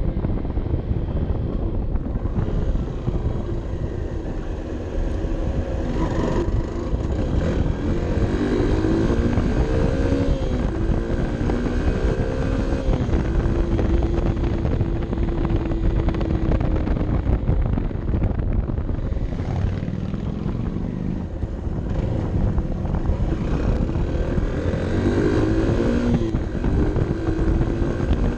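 Honda CB 125 F's single-cylinder four-stroke engine heard onboard while riding, its pitch rising and falling several times with throttle and gear changes, and holding steady for a few seconds in the middle.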